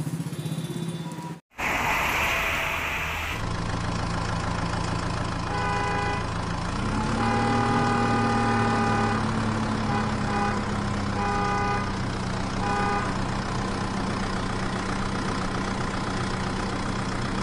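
Vehicle engine idling steadily, its pitch rising slightly about seven seconds in, with several short horn toots between about six and thirteen seconds in. The sound drops out briefly about a second and a half in.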